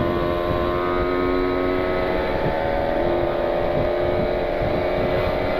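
Kawasaki Ninja 150 RR's two-stroke single-cylinder engine running under way, its note held at a nearly steady pitch, with wind rumbling on the microphone.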